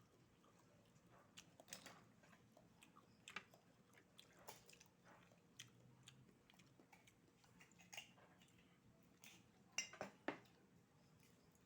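Faint chewing with scattered sharp clicks of someone eating oysters, about one a second, with two louder clicks near the end.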